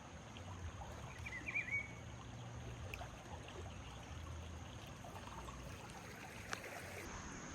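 Faint flowing water of a full, muddy river. There is a short chirping call about a second and a half in, and a single click near the end.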